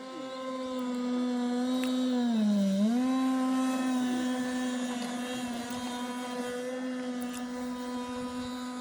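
Small gasoline engine of a model speedboat running at steady high revs, a high buzzing tone. About two and a half seconds in, the pitch dips briefly and picks back up while the sound is at its loudest, then it settles and fades a little.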